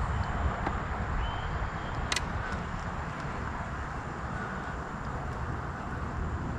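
Steady outdoor rushing noise with a fluctuating low rumble, typical of wind on the microphone over moving river water, with one sharp click about two seconds in.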